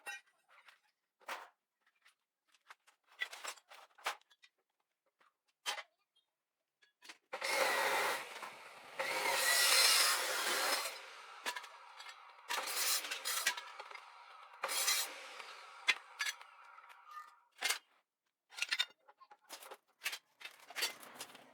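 Hand tools and metal parts being worked in a workshop: scattered clinks and knocks, then a few seconds of harsh scraping and rubbing about a third of the way in, followed by more clanks with a faint metallic ring.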